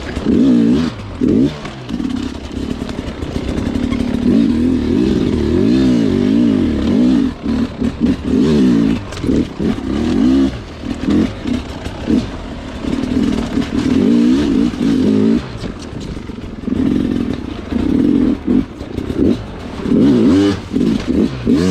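Sherco two-stroke dirt bike engine revving up and down again and again, the throttle opened and shut in short bursts.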